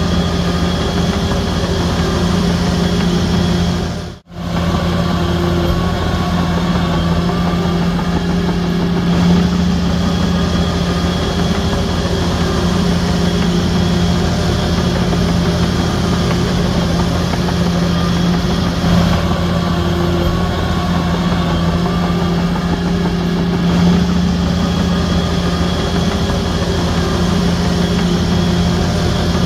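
Shantui DH17C3 bulldozer's diesel engine running at a steady, even speed. The sound cuts out for a moment about four seconds in.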